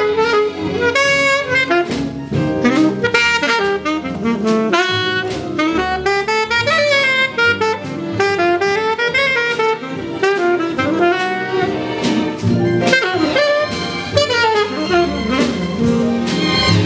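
Jazz music: a saxophone plays a fast, winding melody with quick runs over a lower accompaniment.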